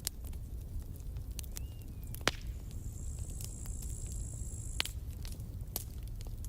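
Wood campfire crackling: irregular sharp pops and snaps over a low steady rumble of the burning fire, the loudest snap a little over two seconds in. A thin high whistle sounds for about two seconds in the middle.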